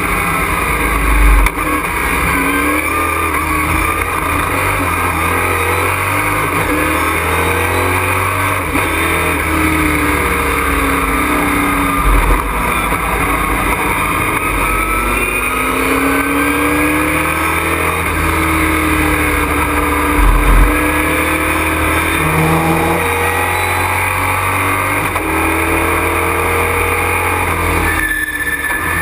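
Super Truck race engine heard from inside the cockpit under racing load, its pitch rising and falling over and over as it accelerates, shifts and slows for corners, over a steady rush of wind and road noise. A few short low thumps come about a second in, about twelve seconds in and about twenty seconds in.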